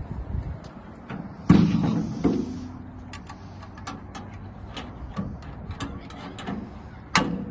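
Tractor's metal engine cover slammed shut about a second and a half in, a loud clang that rings on for about a second, followed by a smaller knock. Another sharp knock comes near the end.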